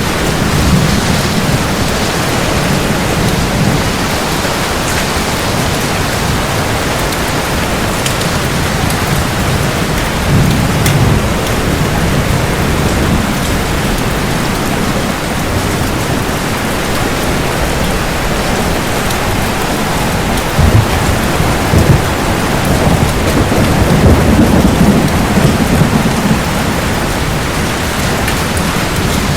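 Heavy, steady rain with thunder rumbling low several times. Two sharp cracks come about two-thirds of the way through, followed by a longer rumble.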